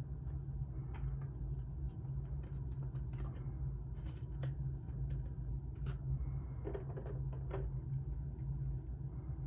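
Cardboard and plastic packaging of a trading-card collection box being handled: a scattering of short scrapes, taps and sliding sounds, busiest in the middle, over a steady low hum.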